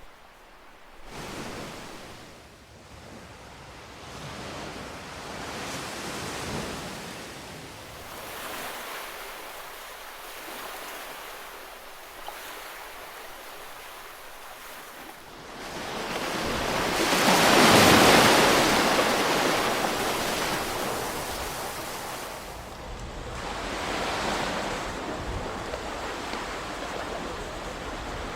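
Ocean waves breaking and washing on a shore, the surf rising and falling in swells; the loudest wave crashes about halfway through and slowly fades.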